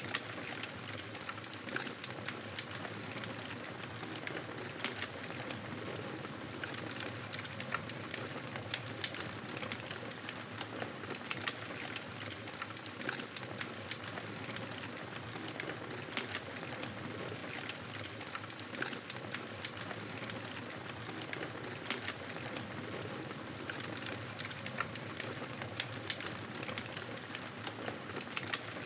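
Fireplace fire crackling steadily, a constant hiss with many small sharp pops scattered throughout.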